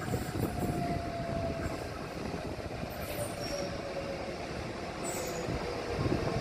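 A train running through the station with a steady rumble. A thin whine falls slowly in pitch throughout, and short high hisses come about three and five seconds in.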